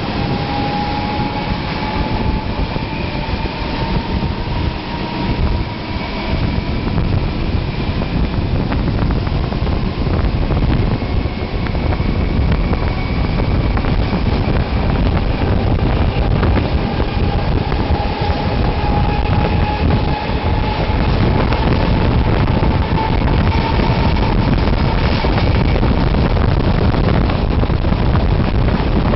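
Moving train heard from an open carriage window behind a ČD class 754 diesel locomotive: wind buffeting the microphone over the rumble of wheels on rail, with faint rising tones from the locomotive's engine working as the train accelerates. It grows gradually louder as the train picks up speed.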